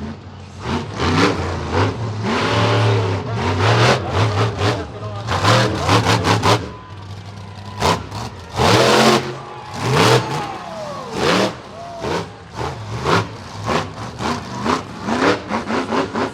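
Monster truck engine revving in repeated quick throttle blips, its pitch rising and falling every half second or so with sharp bursts between, over a steady low idle.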